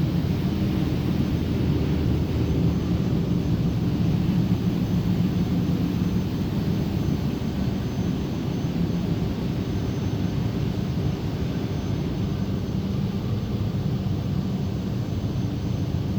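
Steady, low roar of blast furnace plant machinery.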